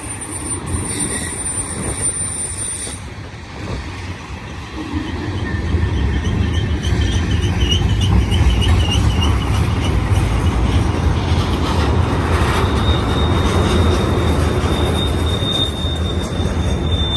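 Freight cars of a passing mixed manifest train rolling by close: a continuous rumble of steel wheels on rail, growing louder after a brief dip. High-pitched wheel squeal comes and goes over it, settling into a steady squeal in the last few seconds.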